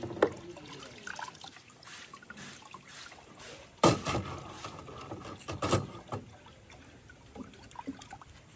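Liquid trickling, broken by a few sharp knocks: one just after the start, the loudest about four seconds in, and another near six seconds.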